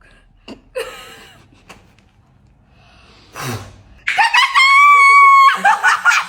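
A long, shrill squeal held on one pitch for about a second and a half, followed by choppy bursts of laughter.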